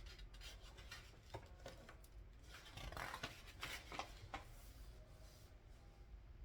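Faint desk handling sounds: scattered light clicks, then a couple of seconds of paper rustling and crinkling a few seconds in, fading near the end.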